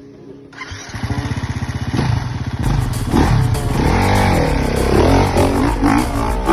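Dirt bike engine running with a rapid firing beat from about half a second in, then revved up and down repeatedly through the rest of the clip.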